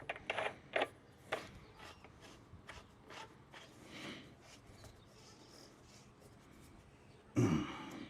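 Small pipe fittings and hand tools being handled: a few sharp clicks in the first second and a half, light scattered ticks and rubbing, then a louder clunk near the end.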